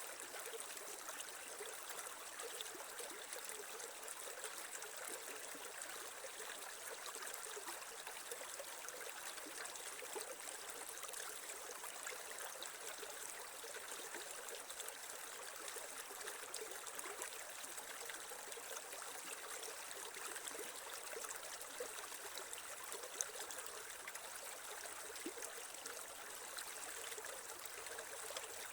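Shallow creek water running and trickling steadily, with a single faint click a little after the middle.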